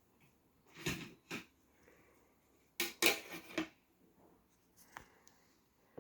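A few short knocks and clatters of something being handled: two about a second in, then a quick cluster around three seconds in.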